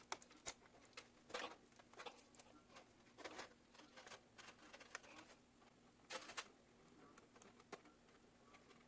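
Faint irregular clicks and short rustles of hands handling PC parts and cables, with a low steady hum underneath.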